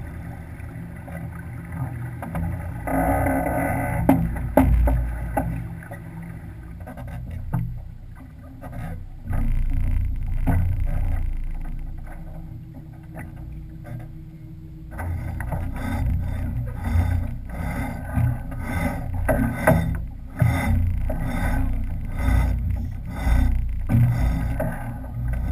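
Sailing yacht under way: uneven low rumble of wind and water against the boat. From about halfway through, many short knocks and rattles join in.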